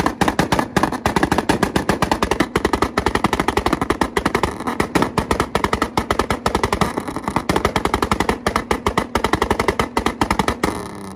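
Car engine held on a two-step launch rev limiter, the exhaust firing a rapid, steady string of loud bangs about ten a second. It lets off near the end.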